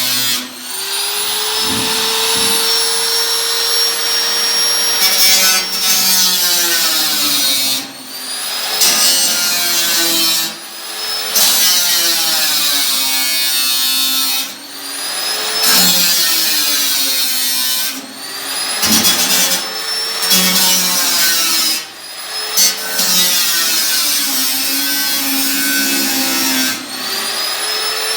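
A handheld electric power tool working the sheet metal of an 18-litre tin can, run in repeated bursts of a few seconds. Its motor pitch falls and rises again at each brief stop and restart.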